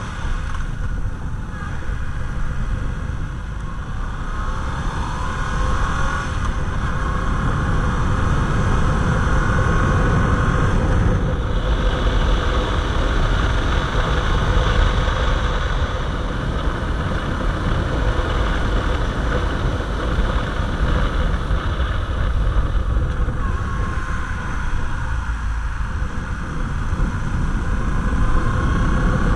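A Yamaha MT-07's parallel-twin engine running while riding, its note rising and falling, under heavy low wind rumble on the camera microphone.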